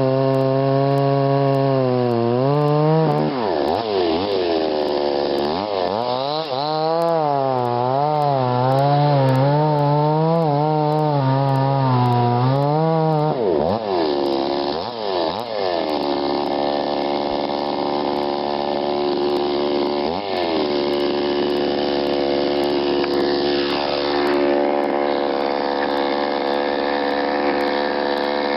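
Chainsaw running, its pitch rising and dipping over and over for several seconds as it cuts wood, then holding steady.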